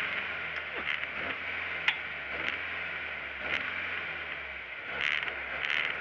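Lada 1600 rally car's engine idling steadily, heard from inside the cabin, with a few light clicks and one sharper click about two seconds in.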